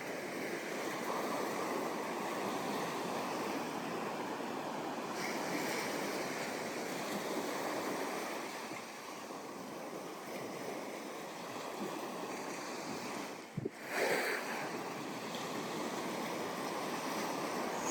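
Ocean surf washing onto a sandy beach, a steady rush of breaking waves. About two-thirds of the way through the sound dips for a moment, then comes back in a short, louder burst.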